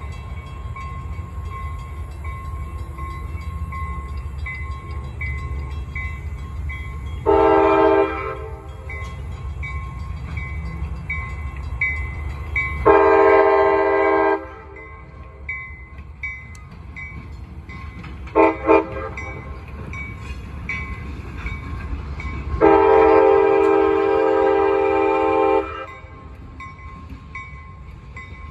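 Diesel locomotive air horn sounding a crossing signal over the low rumble of a passing freight train: a short blast, a longer one, a quick double toot, then a long blast of about three seconds.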